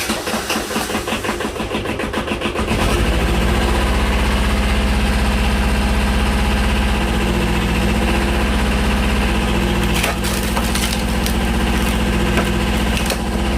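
Tractor engine driving the hydraulic pump of an eight-way log splitter: it pulses unevenly at first, then about three seconds in settles into a louder, steady run as the hydraulic cylinder pushes a log through the blades. A few sharp clicks come later on.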